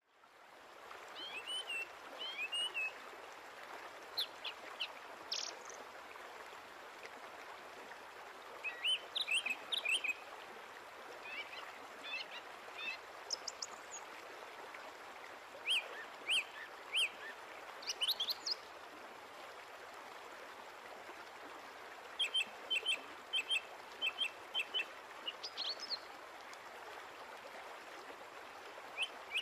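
Birds chirping: short high chirps and quick whistled glides in scattered clusters, including a fast run of repeated chirps in the later part, over a steady background hiss.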